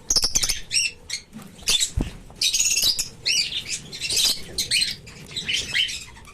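A lovebird chirping and squawking in a string of short, shrill, high-pitched bursts with brief pauses between them. A light knock comes about two seconds in.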